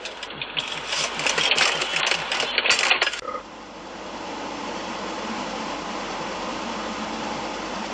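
Rapid rattling clicks at about six a second for roughly three seconds, then an abrupt switch to the steady drone of road and engine noise inside a moving car.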